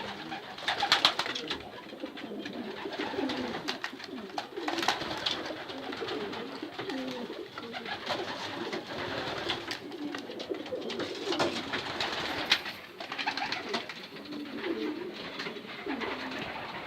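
Several young racing pigeons cooing continuously in a small enclosed loft, with occasional sharp clicks and flutters among them.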